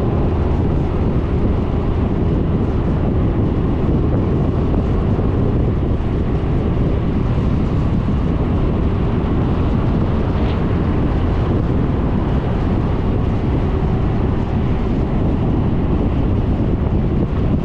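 Steady wind rushing over the helmet or scooter-mounted action-camera microphone while riding, over the running Suzuki Burgman 400 scooter's single-cylinder engine and road noise.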